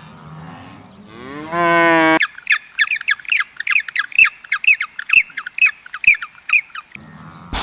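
A cow mooing once, the pitch rising and then holding, followed by a rapid run of short, high, falling bird calls, about three a second, for some four seconds. A sharp click near the end.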